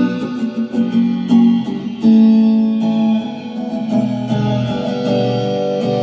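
Electric guitar played solo as an improvised jam: picked single notes and short phrases, some ringing on, with a note change about every half second to a second.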